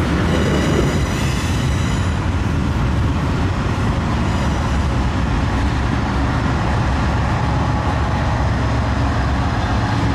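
CP double-stack intermodal freight train running across a steel girder bridge: a steady, continuous rumble of wheels and cars, with faint high-pitched squeals in the first couple of seconds.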